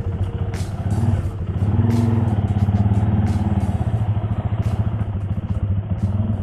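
Motorcycle engine running, picking up revs about a second and a half in and then holding a steady, higher speed.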